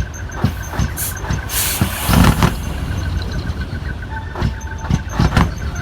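Diesel truck engines running through loud exhaust mufflers, a deep steady rumble punctuated by repeated short surges of throttle. A brief hiss about a second and a half in.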